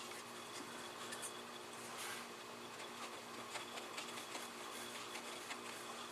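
Paintbrush working on wet watercolor paper: faint soft rubbing strokes and small scattered taps, over a steady low electrical hum.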